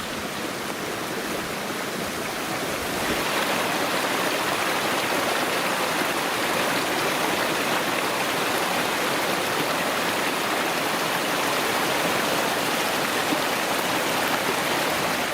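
Shallow river rushing, a steady noise of flowing water that grows louder about three seconds in.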